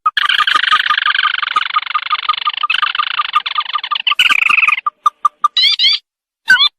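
Recorded lure call of the sintar (tikusan mata merah), a crake: a dense, rattling trill for about four and a half seconds, then short rising notes repeated with brief gaps.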